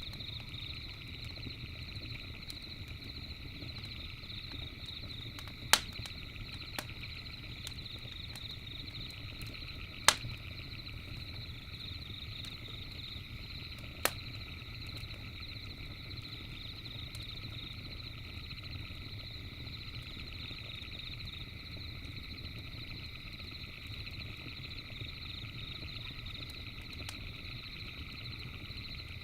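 Campfire crackling with scattered sharp pops, three of them loud, about six, ten and fourteen seconds in, over a low steady rumble and a steady, high-pitched chorus of night creatures.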